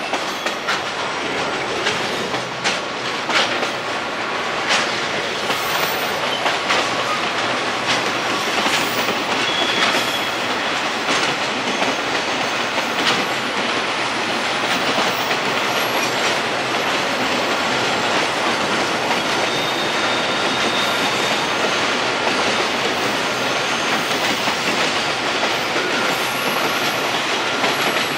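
Freight train hauled by a JR Freight Class EF210 electric locomotive, pulling out: the wagons' wheels run steadily over the rails, clacking irregularly over rail joints, and a faint high wheel squeal comes twice.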